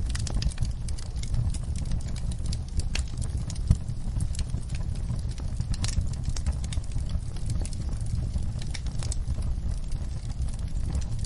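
Wood fire burning in a fireplace: a steady low rumble with frequent irregular crackles and pops, one sharper pop about a third of the way in.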